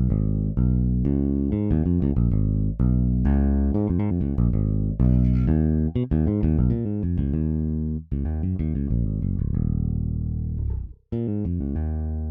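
EZBass virtual electric bass playing a syncopated funk groove of short plucked notes. Near the end a held note slides down in pitch and stops, and after a brief break the playing starts again.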